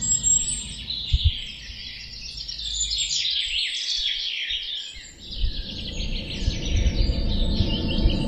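Many small birds chirping and twittering over one another in a continuous chorus, with a low rumble and a few short low thumps underneath, the loudest about a second in.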